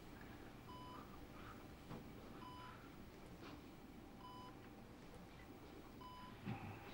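Patient monitor beeping softly: short electronic beeps about every two seconds over quiet room tone.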